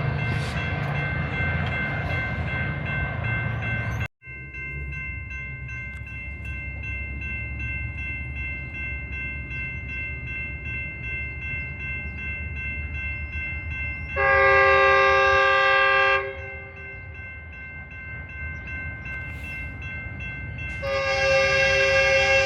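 Diesel train rumbling, with a brief dropout about four seconds in, then a locomotive's chime horn sounding a loud chord twice: a two-second blast about two-thirds of the way through and a longer one near the end.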